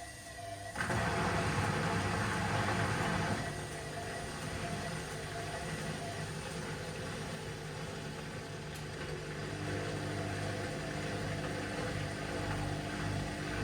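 Washing machine running with a steady motor hum. About a second in, a louder rushing noise starts suddenly and lasts a few seconds, then the machine settles back to steady running.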